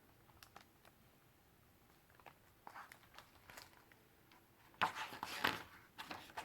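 Faint handling clicks, then a louder paper rustle about five seconds in: a picture-book page being turned.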